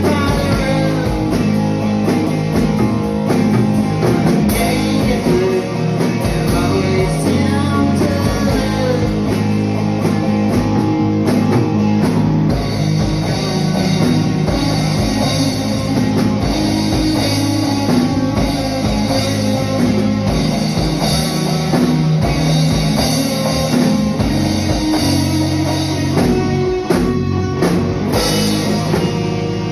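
Rock band playing: electric guitar and drum kit, with singing in places.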